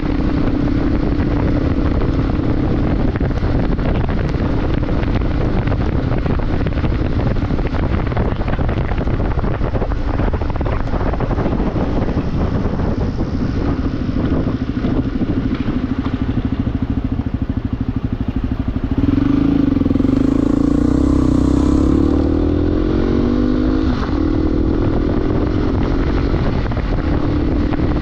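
Motorcycle engine running under way, with wind noise on the microphone. About 19 seconds in, the engine gets louder and climbs steadily in pitch as it accelerates, then drops back sharply about 24 seconds in.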